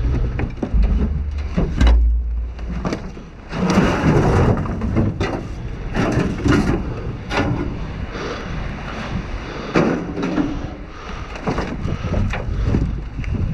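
Rummaging and stepping through piled trash in a dumpster: irregular rustling, scraping and clattering knocks of loose debris being shifted, with wind buffeting the microphone in the first couple of seconds.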